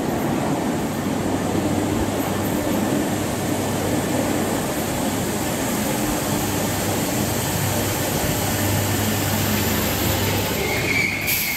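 Merseyrail electric train running into an underground station and slowing, a steady rumble with a low motor hum. Near the end a high squeal starts as the train brakes toward a stop.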